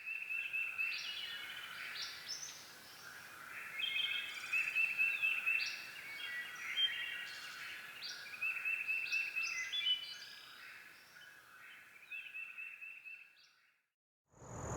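Several birds singing and calling at once, a busy chorus of overlapping chirps and trills that fades out near the end.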